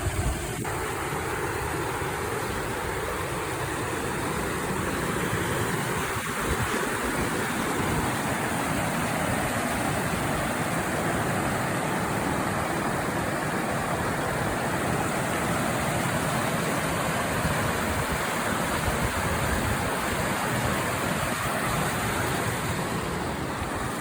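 Creek water rushing steadily over rocks, a constant even hiss.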